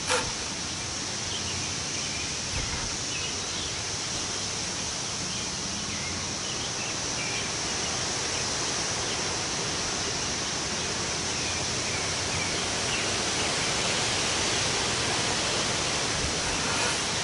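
Wind blowing through the trees: a steady rushing of leaves and branches, swelling a little louder over the second half.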